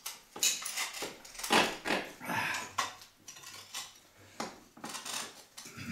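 A pipe wrench clinking and knocking against an old drain pipe's brass coupling as it is fitted and worked close to the wall: a string of uneven, sharp metallic clinks.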